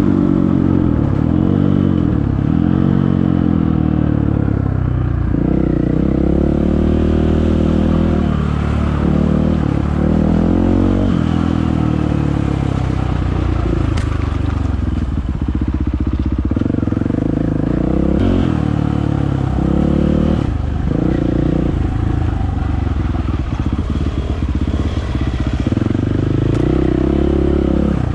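Dirt bike engine revving up and down again and again as the throttle is opened and closed, with a couple of sharp clicks partway through.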